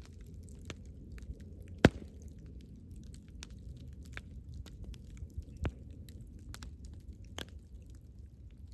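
Campfire crackling: scattered sharp snaps and pops over a low steady rumble, with one loud pop about two seconds in.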